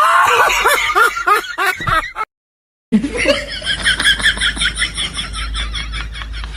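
Two laughter sound effects in a row. First a burst of high-pitched laughing, then after about half a second of dead silence a rapid, high-pitched giggle that slowly fades.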